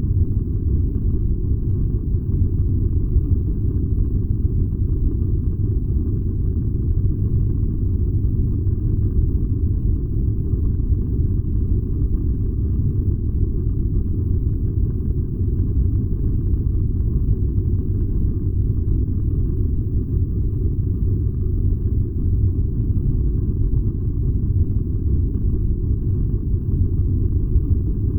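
Furnace burning with a steady low rumble.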